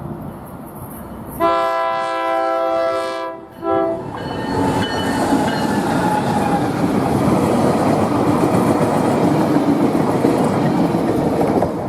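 Locomotive air horn blowing a chord for about two seconds, then a short second blast, followed by the train passing with steady rumbling wheel and rail noise.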